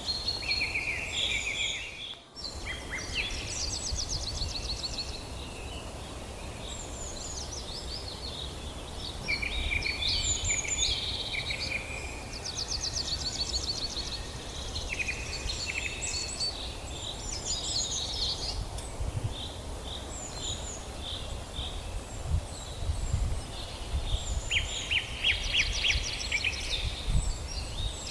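Several songbirds singing at once in a forest chorus: overlapping chirps, whistled phrases and rapid trills, over a low steady background rumble. The sound drops out briefly about two seconds in.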